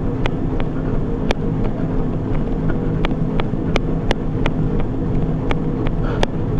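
Treadmill running: a steady motor hum with an even rhythm of sharp footfalls on the moving belt, roughly three steps a second.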